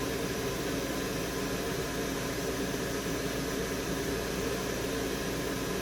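Steady fan-driven hiss with a low hum from soldering-bench air equipment such as a hot-air rework station or fume extractor, running evenly with no distinct events.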